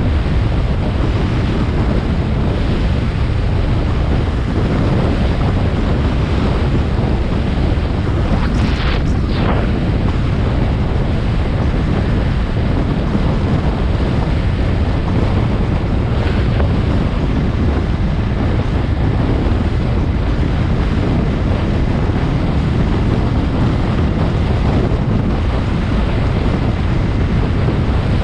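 Wind buffeting the microphone on a moving motorcycle: a loud, steady rush with no let-up. About nine seconds in, a brief higher sound cuts through it.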